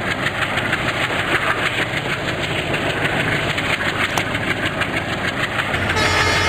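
Train running past at speed: a loud, continuous rumble with rapid wheel clatter. Near the end the sound changes abruptly and a few steady whining tones come in.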